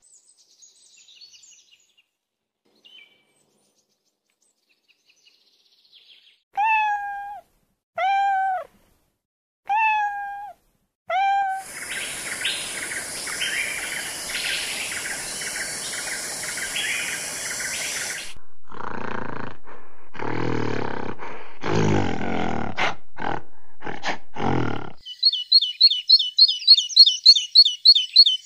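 A string of different animal sounds. First come four short pitched calls, each rising then falling, about a second and a half apart. Several seconds of hissing noise follow, then a few rough broken bursts, and near the end a fast run of high bird chirps, about four a second.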